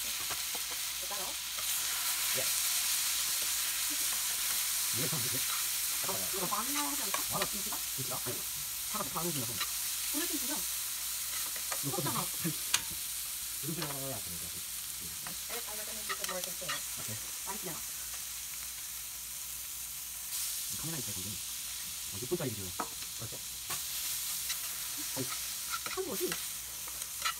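Kimchi and leek sizzling steadily in sesame oil in a hot grill pan, while a silicone spatula stirs and scrapes them.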